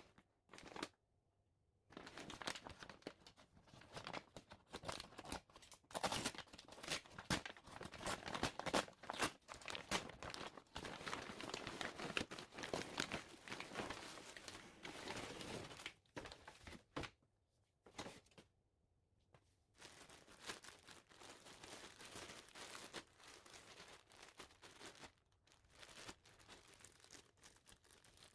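Packaging crinkling and tearing as it is handled and opened, in uneven bursts with a couple of short pauses about two-thirds of the way through.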